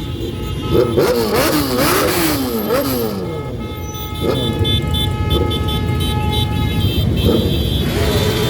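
A procession of motorcycles riding past, engines revving up and down again and again. About three seconds in, a steady horn tone with several pitches sounds for a few seconds over the engines.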